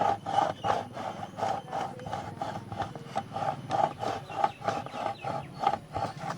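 Scratching strokes on the body of a camera, repeated evenly about three times a second.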